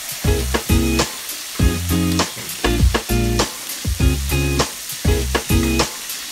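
Breaded chicken wings sizzling as they fry in hot oil in a pan, with metal tongs moving the pieces, under background music with a steady bass line.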